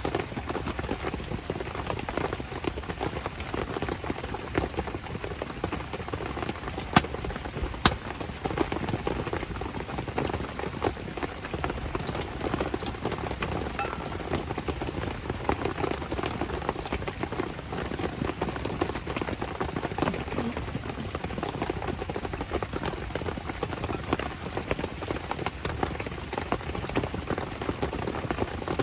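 Steady rain pattering, with a wood campfire crackling; two sharp pops stand out about seven and eight seconds in.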